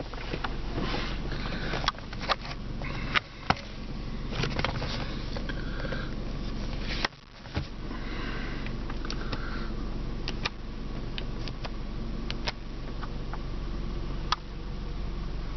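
Steady hum in a car cabin, with scattered sharp clicks and knocks from the center console's plastic lids and trim being handled.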